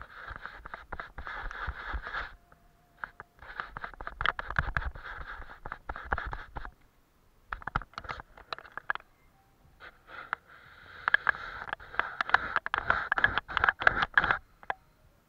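A paintbrush working on paper in scratchy, rasping strokes. It comes in spells of a few seconds separated by short pauses.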